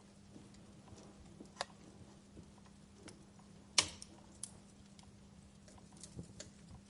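Wood fire crackling, with scattered sharp pops and snaps; the loudest pop comes a little under four seconds in, with a smaller one about a second and a half in and a few more near the end.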